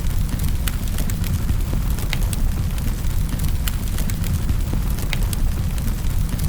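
Wood fire crackling in a fireplace: a steady low rumble of the flames with frequent sharp pops and crackles, several a second.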